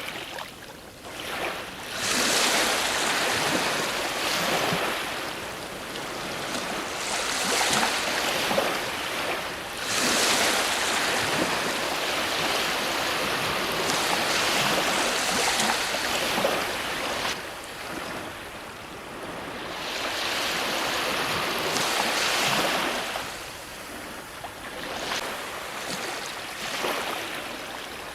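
Ocean waves breaking on a shore, one surge after another, each swelling and falling away over a few seconds.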